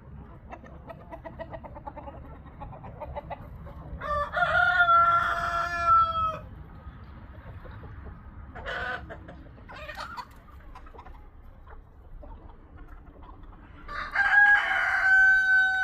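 Chickens in a poultry yard: hens clucking, and a rooster crowing twice, a long call about four seconds in and another near the end.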